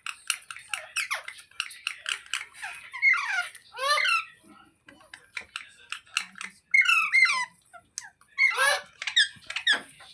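Parrot giving a rapid series of short squeaky calls and chirps, many swooping down in pitch, with small clicks in between and louder bursts of calls near the middle and toward the end.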